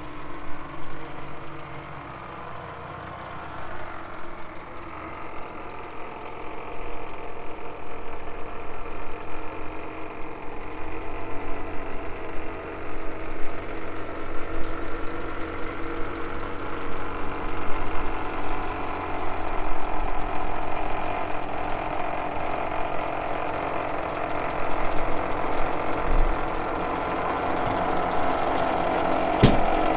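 Tractor diesel engine running steadily, with a mechanical clatter, growing gradually louder over the half minute.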